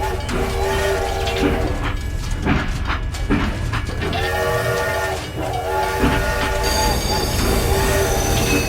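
A horn sounding several notes at once, in four blasts of about a second each, like a train horn, over a steady low rumble. In the middle, between the blasts, comes a rattling clatter.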